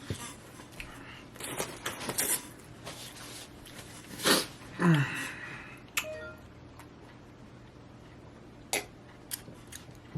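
Close-up eating sounds: chewing, with crinkling and handling of food and packaging as scattered clicks and short rustles, loudest about four seconds in. A brief low falling voice sound comes about five seconds in.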